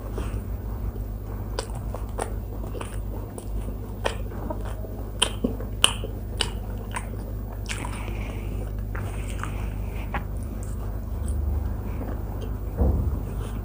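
Close-miked chewing and wet mouth sounds of someone eating paratha flatbread with vegetable curries, with scattered sharp clicks and smacks over a steady low hum.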